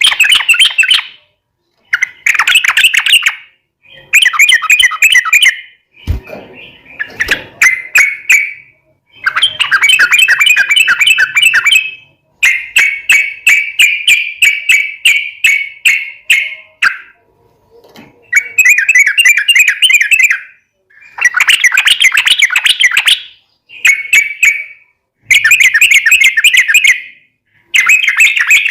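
Yellow-vented bulbul (trucukan) singing in long, rapid bubbling phrases, repeated again and again with short pauses between them. There is a single knock about six seconds in.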